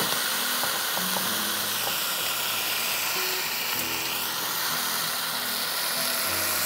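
Whole marinated chicken sizzling steadily as it fries in hot oil in a wok, with music underneath.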